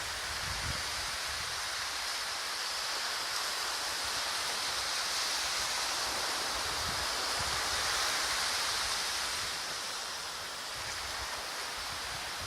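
Steady rushing of strong seaside wind and Atlantic surf ahead of a storm, with wind buffeting the microphone in low thumps a few times.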